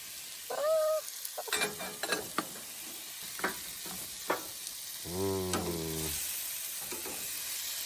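Steak sizzling and frying in a pan on a camp stove: a steady hiss, with a few light clicks of utensils against the pan.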